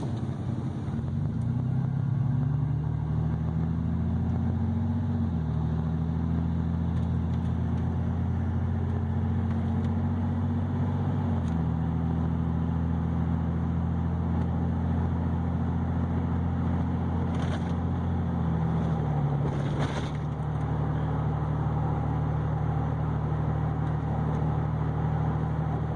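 2007 Ford F-150's 4.2-litre V6, freshly fitted with a Screamin Demon coil pack, iridium plugs and new plug wires, running under way through its Aero Turbine performance exhaust, heard from inside the cab. The engine note holds steady, then steps to a new pitch a few times.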